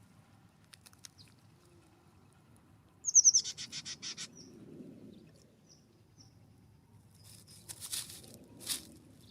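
A wild bird calling: a fast run of about ten harsh, rasping notes, starting with a few quick falling notes, about three seconds in. Near the end come two or three short noisy bursts.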